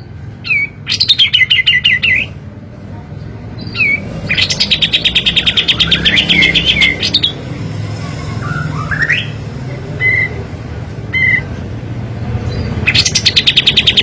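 A kapas tembak songbird singing its rapid-fire 'tembakan' bursts: fast, tightly packed runs of high notes, about eight a second, each lasting a second or more. There are three such runs, with short single chirps and rising call notes between them.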